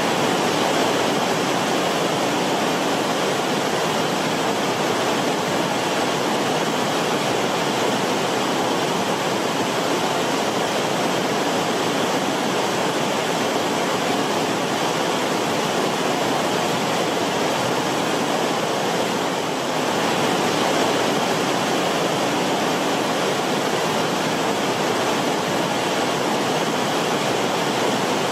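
Creek water flowing steadily over rocks, rippling and bubbling in an even rush.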